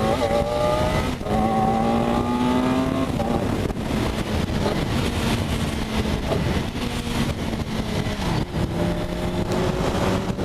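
BMW K1200S inline-four with an Akrapovič exhaust accelerating hard: the engine note climbs, drops at an upshift about a second in, and climbs again. After about three seconds it settles into a steadier cruise under heavy wind rush.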